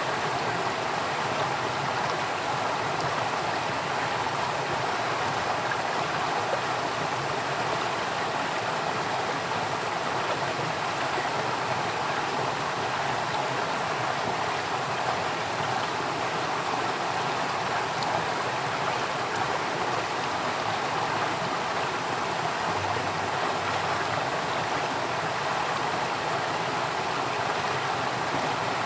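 Flowing water running steadily, a continuous rushing with no breaks.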